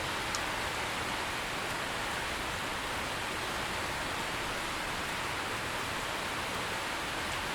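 Steady heavy rain, an even hiss of falling drops.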